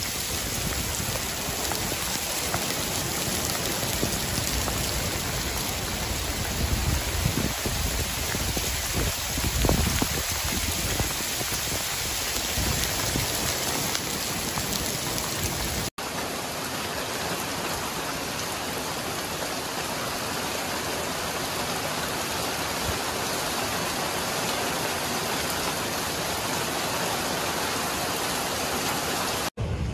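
Heavy rain and hail pelting a wet street as a dense, steady hiss, with a deeper rumble swelling in the first half. About halfway the sound cuts abruptly to a steadier, thinner downpour.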